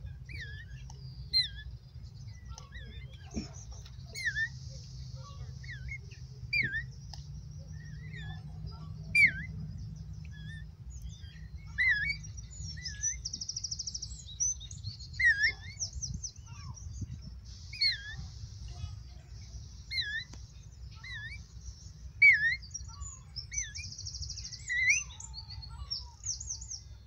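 Small birds chirping: short hooked calls repeated every second or two, with rapid high trills in between, over a steady low rumble.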